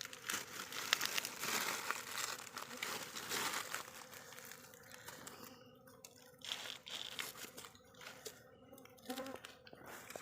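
Crinkling, crackling and tearing as the wax-sealed covering of a stingless bee hive is pulled open by hand. The tearing is dense at first, then thins to scattered crackles and clicks after about four seconds.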